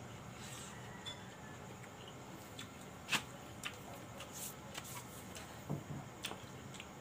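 A person eating close to the microphone: chewing and wet mouth clicks while biting corn on the cob, with scattered sharp clicks, the loudest about three seconds in.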